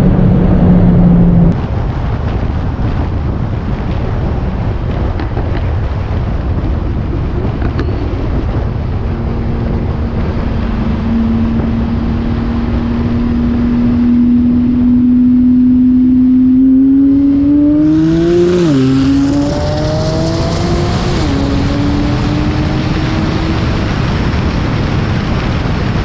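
Car engine under hard acceleration over a steady rush of wind and road noise. Its pitch climbs slowly for several seconds, then falls sharply twice near the end as it shifts up a gear, and climbs again after each shift.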